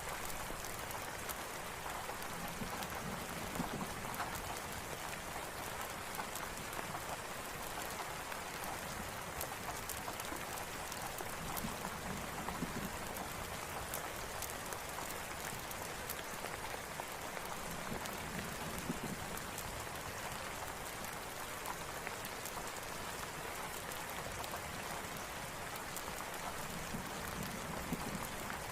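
Steady rain with a crackling campfire mixed in: an even hiss of rain, dotted with scattered sharp crackles throughout.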